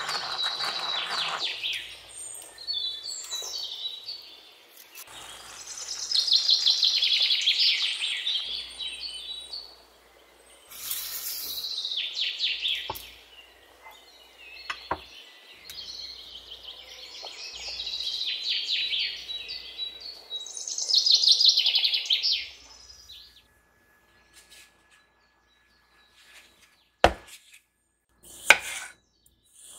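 Birds singing, several bright, rapidly trilling high phrases one after another, then fading out; a couple of sharp knocks near the end.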